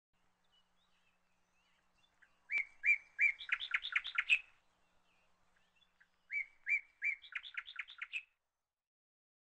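A songbird singing two short phrases a few seconds apart, each about two seconds long. Each phrase opens with three or four evenly spaced notes and quickens into a rapid run of notes.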